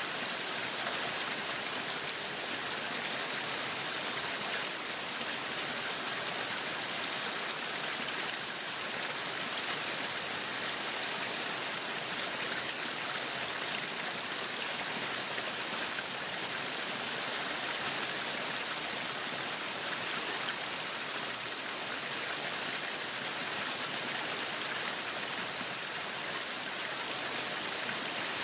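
Meat sizzling on a yakiniku grill: a steady, even hiss with no breaks.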